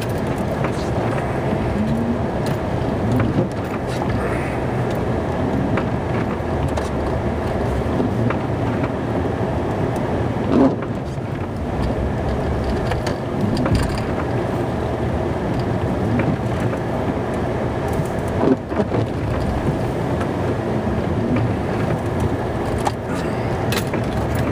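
Snow-plow truck running, heard from inside the cab while plowing, a steady engine and cab hum with a few short knocks and thuds, the loudest about a third of the way in and again about three quarters through.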